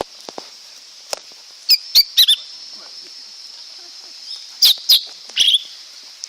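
Lesser green leafbird calling: two quick runs of three sharp, high notes each, about three seconds apart, over a steady high-pitched background drone.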